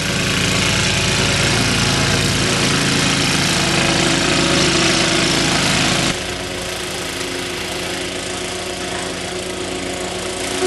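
Snowblower engine running steadily. It gets suddenly quieter about six seconds in.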